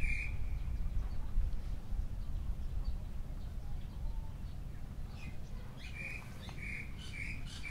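Short, high bird chirps, one at the start and a quick run of about four near the end, over a steady low rumble.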